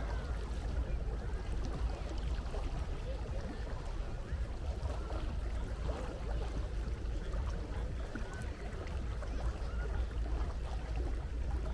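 Seaside ambience: a steady wash of sea water with a deep, even rumble underneath.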